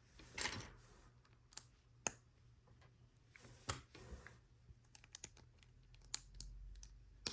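Small plastic LEGO pieces clicking and clattering as they are handled and fitted: a short rustle near the start, then a handful of sharp, separate clicks.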